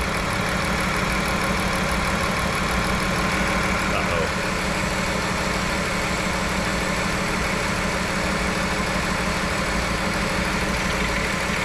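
Chrysler 3.6-litre Pentastar V6 idling with a bad misfire, steady and uneven, while water runs from a hose nozzle into the radiator filler neck. The misfire comes from overheating after the coolant was lost, which warped the cylinder head and cost compression.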